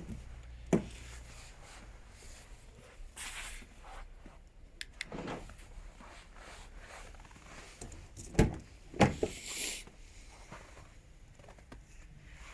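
Car door being handled: three sharp clunks, one about a second in and two about half a second apart past the middle, with brief rustling and shuffling in between.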